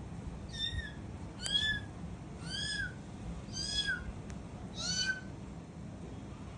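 Pet cockatiel calling: five short arched calls that rise and fall in pitch, about one a second, with a longer gap before the last.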